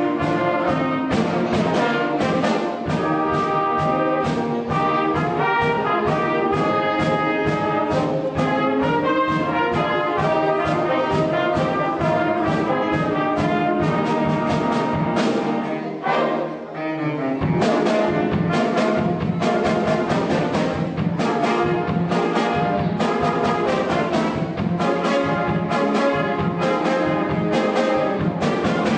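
Symphonic wind band playing a lively piece, with brass to the fore over a steady beat from the drum kit. About two-thirds of the way through the band thins out for a moment, then comes back in full.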